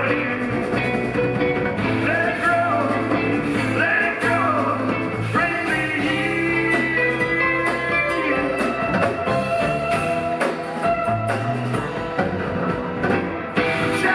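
Live rock band playing an instrumental passage: electric lead guitar with gliding, bending lines over bass, keyboards and percussion.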